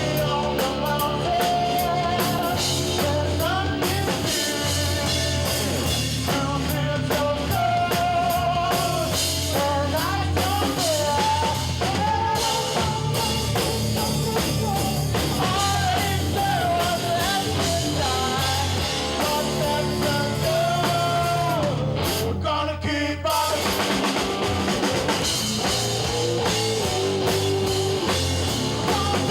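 A rock band playing live: a drum kit and bass under guitars, with a bending melodic lead line over them. The bass and drums drop out for about a second roughly twenty-two seconds in, then the full band comes back.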